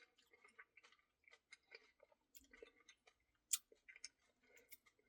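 Near silence with faint, scattered mouth clicks and small ticks of quiet chewing, and one sharper click about three and a half seconds in.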